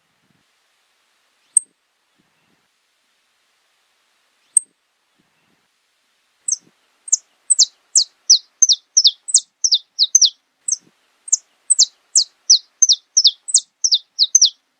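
Saffron finch singing: two short, isolated high chips, then from about halfway in a fast run of clear notes, each sliding downward, about three a second.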